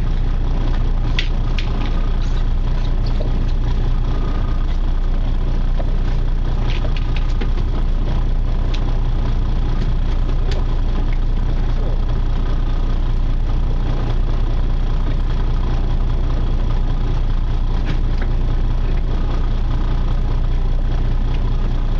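Charter boat's engine running steadily, a low drone with a few light clicks and knocks over it.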